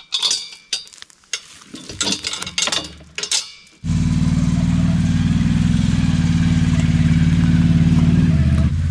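Scattered clicks and knocks of handling, then an engine starts abruptly about four seconds in and runs steadily, settling a little lower in pitch near the end.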